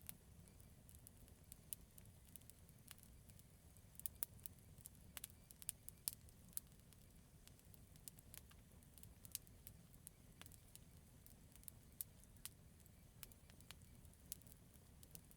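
Campfire burning with faint, irregular crackles and sharp pops of burning wood over a steady low rumble. The pops come thickest from about four to seven seconds in.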